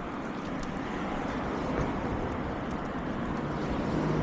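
Steady road-traffic rumble that grows louder toward the end as a vehicle comes closer.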